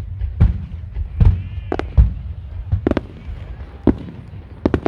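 Aerial fireworks shells bursting in a rapid, irregular string of about a dozen booms and sharp cracks. The deepest booms come in the first two seconds.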